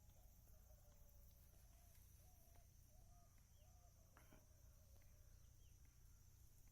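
Near silence: faint outdoor ambience with a steady high-pitched drone and a few faint, short wavering calls.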